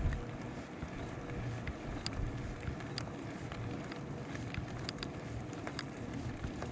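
Bicycle riding along: steady tyre rolling noise and wind on the microphone, with a few light clicks and rattles from the bike and a bump right at the start.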